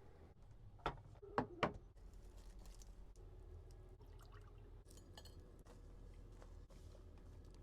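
Kitchenware clinking: three sharp clinks about a second in, then a few fainter clinks and handling sounds, over a low steady hum.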